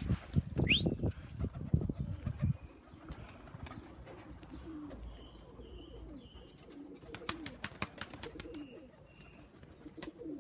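Racing pigeons cooing repeatedly. A burst of loud rustling and thumps comes in the first couple of seconds, and a quick run of clicks follows about seven seconds in.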